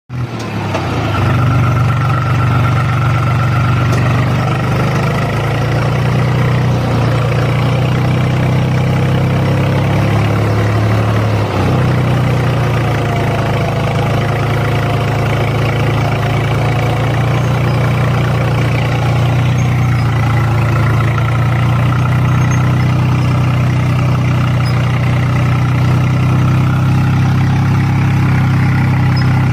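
Tractor diesel engine running steadily while pulling a cultivator through a field, with a brief dip in the engine note about a third of the way in.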